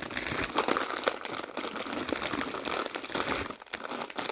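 Crinkly snack-chip bag being handled, crackling steadily with many small sharp crinkles.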